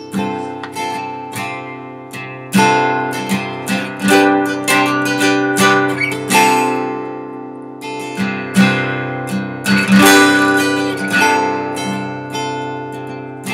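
Taylor acoustic guitar strumming chords, with no singing.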